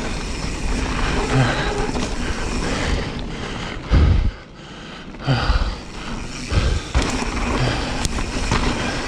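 Wind buffeting the camera microphone and the mountain bike's knobby tyres rolling over a dirt trail during a fast descent. A heavy low thump comes about four seconds in, followed by a brief lull, then more thumps.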